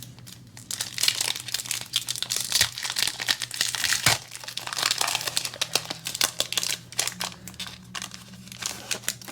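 A trading-card booster pack wrapper being torn open and crinkled: a dense crackling of plastic for about the first five seconds, then lighter rustles and clicks.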